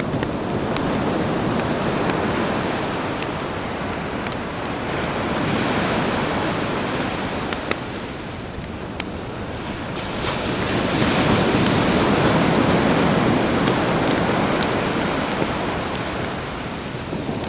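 Sea waves washing ashore in slow swells, three surges with the longest near the end, over the scattered sharp pops and crackles of a burning campfire.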